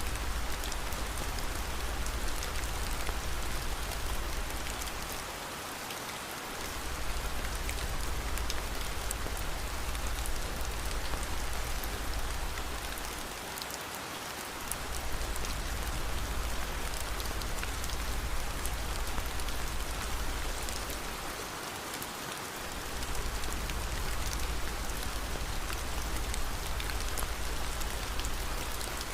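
Steady rain falling, with fine ticks of drops over an even hiss. A low rumble under it drops away briefly about every eight seconds, three times.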